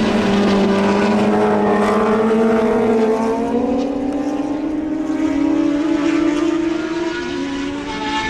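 Racing motorcycle engines at high revs, the note falling slightly near the start and then climbing slowly as a bike accelerates, with a second engine note layered over it.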